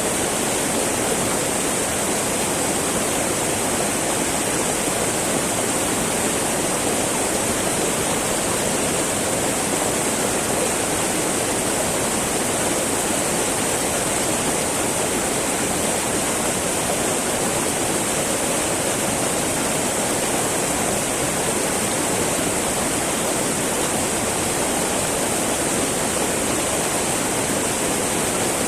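Small mountain river babbling over rocks: a steady, unbroken rush of flowing water.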